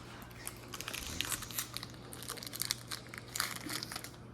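Foil booster-pack wrapper crinkling and tearing as a Pokémon card pack is opened, a run of short, sharp crackles.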